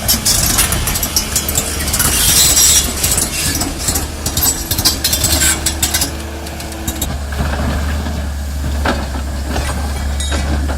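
Heavy machinery's diesel engine running steadily, with loud scraping and clattering over the first seven seconds, then a few separate knocks.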